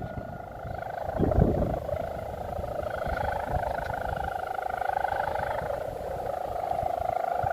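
Steady, slowly wavering drone of a large kite's hummer (sendaren) vibrating in strong wind, with wind buffeting the microphone, hardest about a second in.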